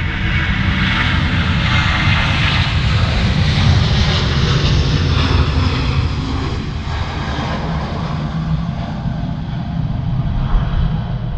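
Jet airliner's engines passing close by: a loud low rumble with a rushing hiss that peaks a few seconds in and then slowly fades.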